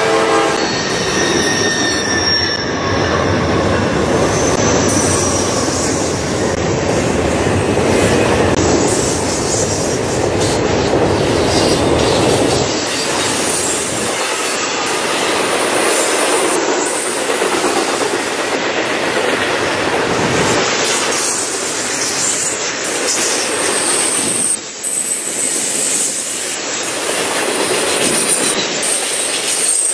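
Freight train rolling past, its steel wheels running on the rails in a steady, continuous din, with thin wheel squeal in the first few seconds.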